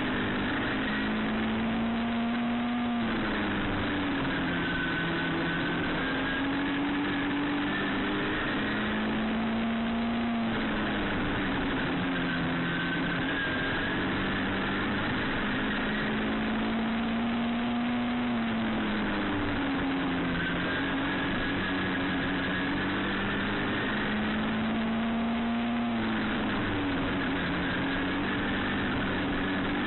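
Midget race car engine running laps around an oval. Its pitch climbs steadily, then drops sharply and builds again in a repeating cycle about every seven to eight seconds, lifting and getting back on the throttle around the track.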